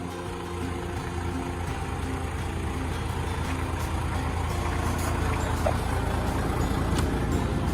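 Isuzu Giga heavy truck's diesel engine running with a deep low rumble, growing steadily louder.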